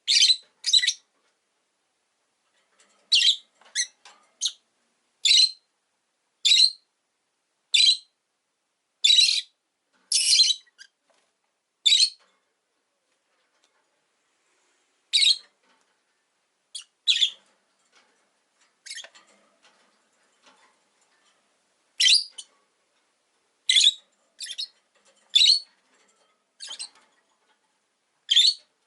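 Rosy-faced lovebirds calling: short, sharp, high-pitched chirps, one at a time at irregular intervals, about twenty in all, with a couple of brief lulls.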